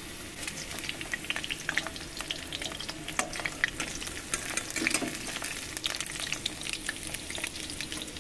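Potatoes frying in hot oil in a steel kadai: a steady sizzle, with frequent sharp clicks and scrapes as a steel spoon stirs and scoops them against the pan.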